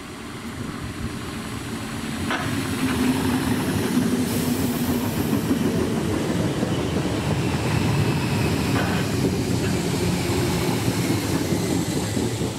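Southern Class 313 electric multiple unit running past on the rails, growing loud as it arrives and fading as it goes by. A couple of sharp clicks from the wheels are heard under the steady running noise.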